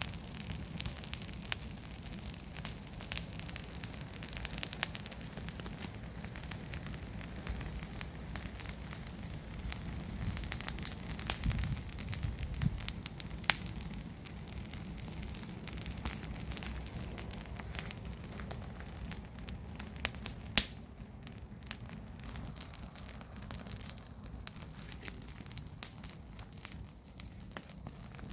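Garden bonfire of garden waste crackling, with frequent irregular sharp pops over a low steady rumble.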